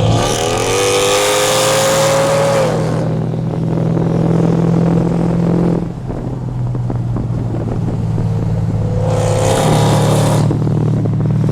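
Mercedes-Benz E55 AMG 5.4-litre V8 accelerating hard at highway speed: the engine note climbs in pitch over the first few seconds, then levels off. A second hard pull comes near the end, over a steady low road and engine drone.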